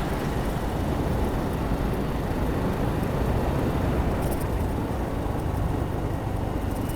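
Steady road and wind noise from a moving motorcycle, a constant low rumble at cruising speed.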